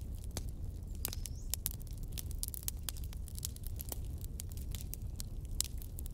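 Wood fire crackling: irregular sharp pops and snaps, dense at times, over a steady low rumble.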